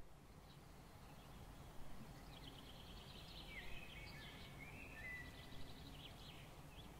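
Faint songbird chirps and trills over a steady low background noise, the birdsong mostly in the middle of the stretch.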